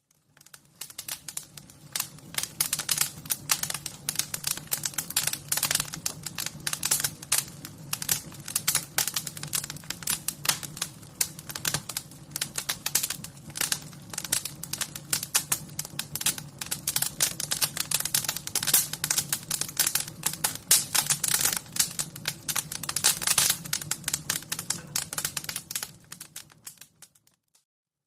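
Wood fire crackling, with a dense run of quick snaps and pops over a low steady rumble. It fades in at the start and fades out near the end.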